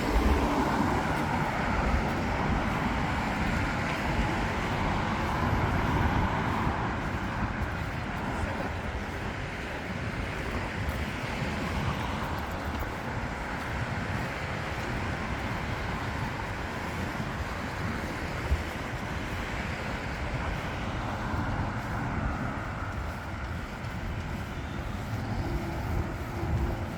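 Steady city street traffic noise: cars passing with a continuous low rumble, and a single short click about two-thirds of the way through.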